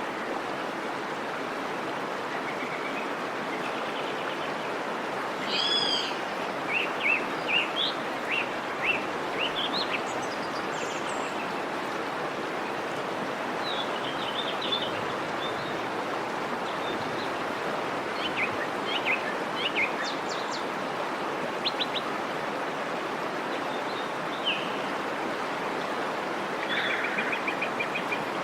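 Birds chirping and whistling now and then over a steady background hiss, ending with a quick trill of repeated notes near the end.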